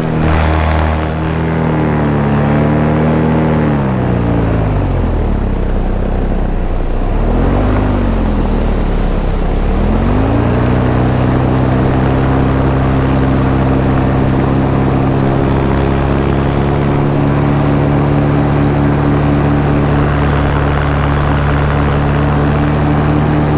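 Paramotor engine and propeller running in flight. The engine note falls about two seconds in, rises and falls once more, then climbs back about ten seconds in and holds steady.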